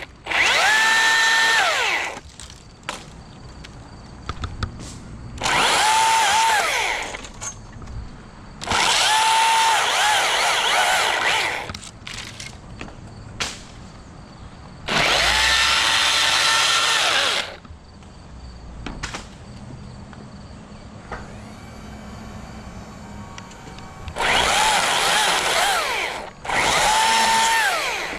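Electric motor spinning up, running at a steady whine for one to three seconds and winding down, six times with pauses between.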